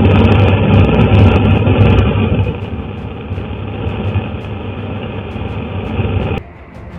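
A loud, steady rushing rumble that drops in level about two seconds in and cuts off sharply near the end.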